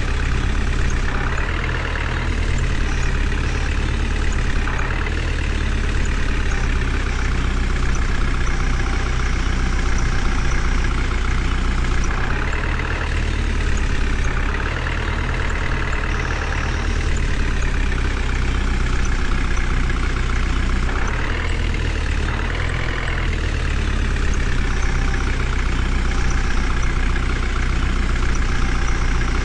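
Heavy diesel engine running steadily, its note shifting a few times.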